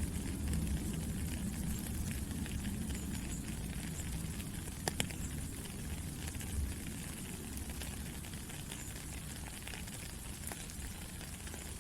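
Steady rain falling, a continuous hiss with a heavier low rumble and scattered sharper drop ticks, one pair of louder ticks about five seconds in.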